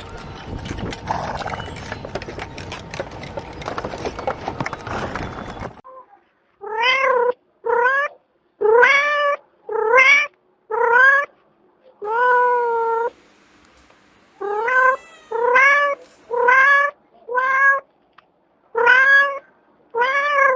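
A cat meowing over and over, about a dozen separate meows that each rise and then fall in pitch, one of them longer and drawn out. Before the meows there are about six seconds of rough noise full of clicks, which cut off abruptly.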